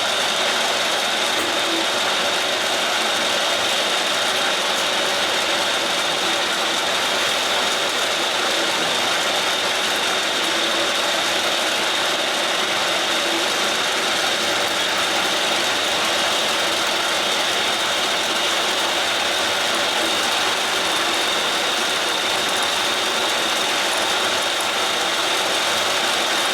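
Milling machine running steadily as an 8 mm two-flute round-nosed end mill cuts a flute along a threaded hob blank, a constant mechanical noise with a steady high whine.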